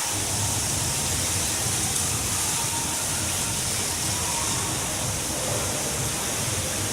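A man-made waterfall pouring and splashing in a steady, even rush of water noise, with a low hum underneath.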